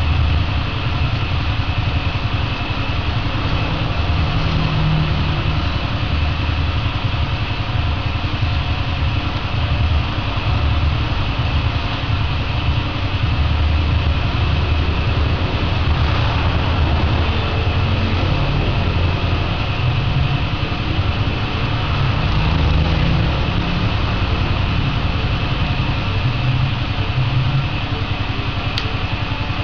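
A steady mechanical drone, like a motor running, holding an even level throughout.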